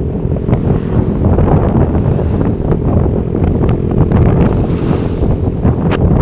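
Heavy wind buffeting on the microphone of a motorcycle riding at speed, with the bike's engine humming steadily underneath.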